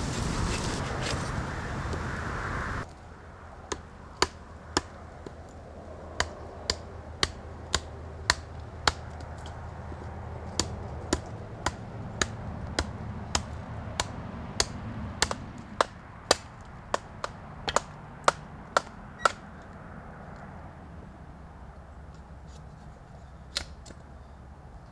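Firewood being broken down by chopping or splitting: a run of sharp, separate knocks, roughly two a second and uneven in spacing, that thins out near the end. A steady hiss fills the first three seconds and cuts off suddenly.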